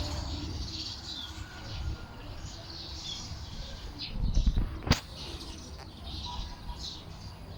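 Birds chirping outdoors, many short high chirps, several of them falling in pitch, over a low rumble. The rumble swells about four seconds in and ends in a sharp click just before the five-second mark.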